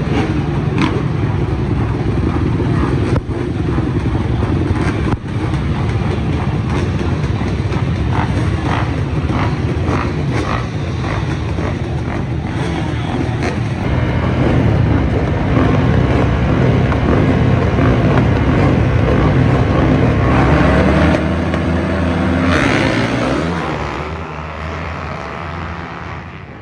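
Engines of off-road race machines running hard, with the pitch shifting as they rev; the sound builds to its loudest in the second half and then fades away near the end.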